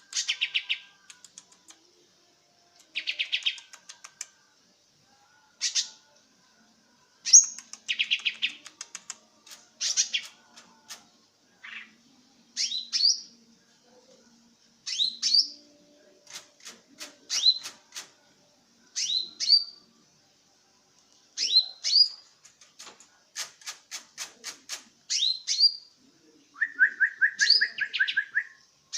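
A songbird singing in short, repeated phrases every second or two. The phrases mix fast rattling clicks with sharp rising whistles, and a steadier buzzy note comes near the end.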